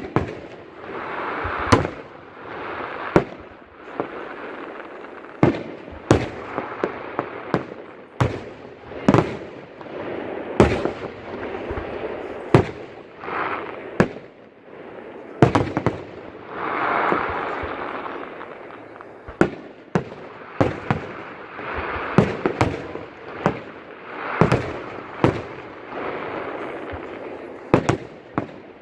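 Fireworks display: aerial shells bursting in quick succession, about one sharp bang every second, over a continuous noisy rush between the bangs.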